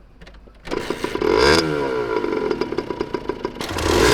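Honda NS-1's single-cylinder two-stroke engine comes in suddenly about two-thirds of a second in, gives one quick rev that rises and falls, then idles with an uneven, crackly beat.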